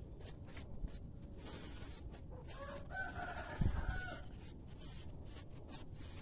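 A rooster crowing once, starting about two and a half seconds in and lasting under two seconds, over faint scattered clicks. A low thump comes partway through the crow.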